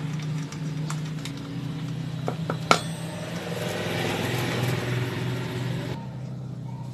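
Light metallic clinks of tools and engine parts being handled, with one sharp clink about halfway through, over the steady hum of an engine running in the background.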